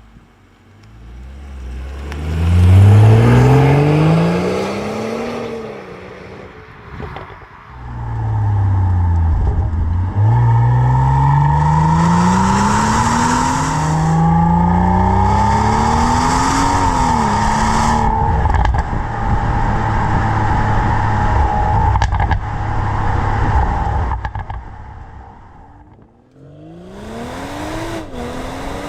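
BMW 340i's turbocharged 3.0-litre inline-six through a Scorpion 80mm non-resonated cat-back exhaust, accelerating hard through the gears. The engine note climbs in pitch and drops back at each shift, and the sound swells and fades several times, with a final run starting near the end.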